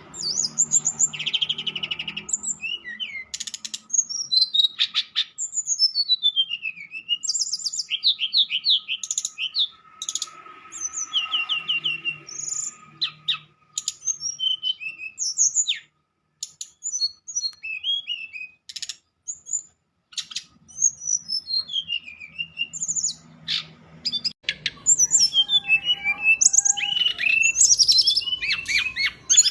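Brown-chested jungle flycatcher (SRDC) singing a long, varied song of quick chirps, down-slurred whistles and trills, with a brief pause about halfway through.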